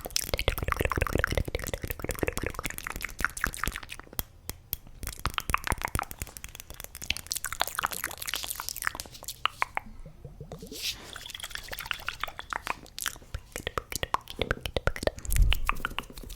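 Close-miked ASMR mouth sounds and tapping: a dense run of rapid wet clicks and pops, with brief lulls about four and ten seconds in.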